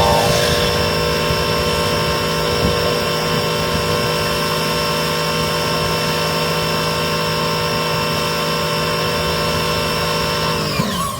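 A motor runs at a steady pitch, then is switched off near the end and winds down, its pitch falling as it stops.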